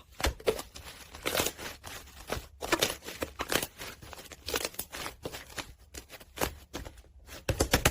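Slime being worked by hand: irregular crackling and popping clicks as it is squeezed and stretched.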